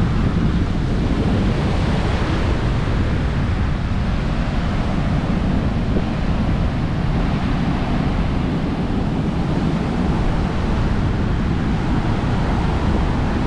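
Strong storm wind blowing on the microphone with a loud, steady rumble, and heavy surf washing on the beach beneath it.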